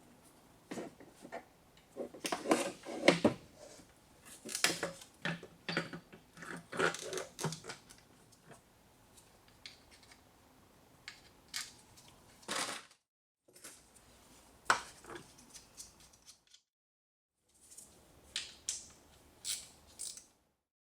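Irregular metallic clinks, knocks and scrapes of tools and engine parts being handled during engine work, in three stretches that cut off abruptly.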